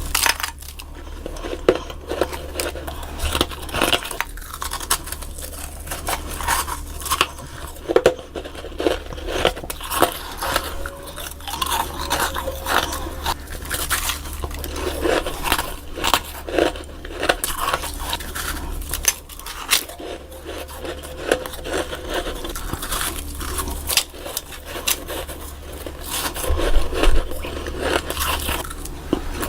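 Close-miked biting and chewing of freezer frost: a dense, irregular run of crisp crunches, crackles and scrapes, sped up.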